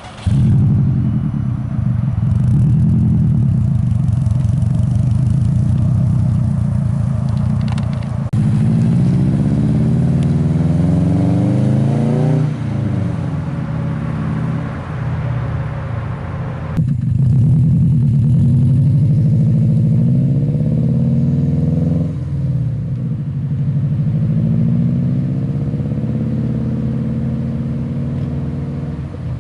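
2002 Subaru WRX's 2-litre turbocharged flat-four running through an Invidia N1 race exhaust with no resonator, a steady boxer rumble. Twice the revs climb for a few seconds and then drop back: about a third of the way in and again just past halfway.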